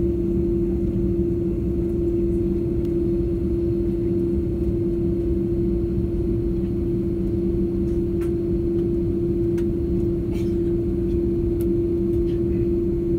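Airliner cabin noise: a steady drone of the idling jet engines and cabin air with a constant hum, pitch not changing, as the aircraft waits or taxis before the takeoff roll. A few faint clicks in the second half.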